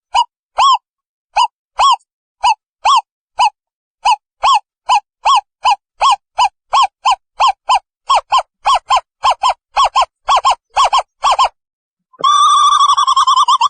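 Owl calling: a series of short hoots, each rising and falling slightly in pitch, that gradually speed up. About twelve seconds in they give way to a fast, wavering trill.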